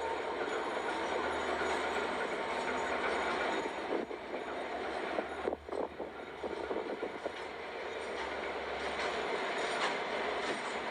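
Freight train rolling on the rails, a steady rumble and clatter of wheels that dips briefly about halfway through.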